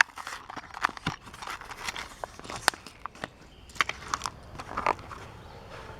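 Hot Wheels blister-card packaging being opened by hand: the stiff plastic blister and card backing crackling and crunching in a string of irregular sharp snaps.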